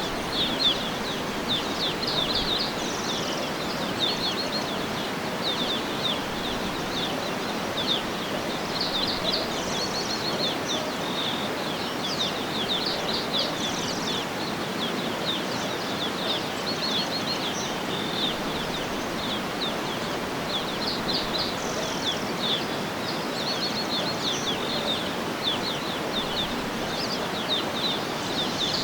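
Small birds chirping in quick short runs of high notes over a steady, even rushing background noise.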